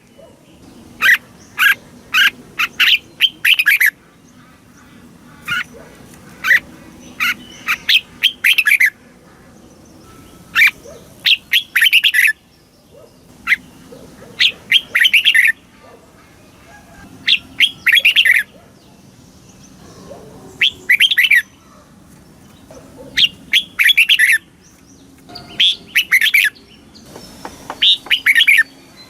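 Red-whiskered bulbul singing: a dozen or so short, quick, chattering song phrases, one every two to three seconds.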